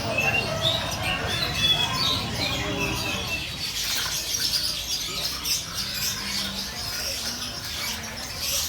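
Many caged songbirds chirping and whistling at once: short clear whistles at first, then a dense high twittering chorus over a low background hum.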